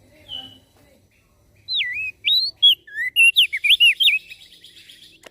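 Crested white-eye (opior jambul) singing. A single short note comes near the start, and about a second and a half in it gives a loud phrase of quick slurred whistled notes, running into a buzzy trill near the end.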